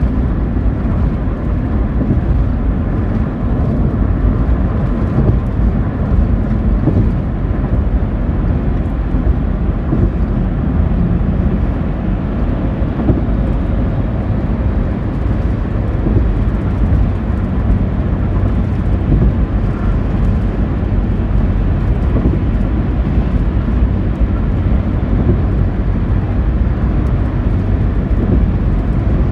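A car driving at speed, heard from inside: a steady low rumble of road and engine noise, with gusty crosswind around the car.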